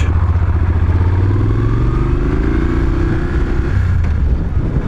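Moto Guzzi motorcycle's V-twin engine running steadily while riding, with a faint higher note rising slowly through the middle.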